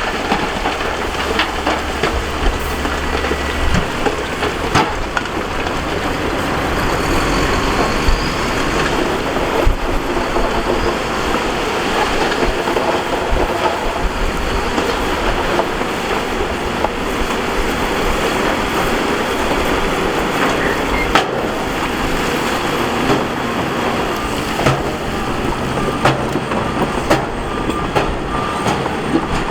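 Heavy earthmoving machinery at work on gravel and rock: a diesel engine running under dense, continuous clanking and scraping, with many sharp knocks of rock and metal.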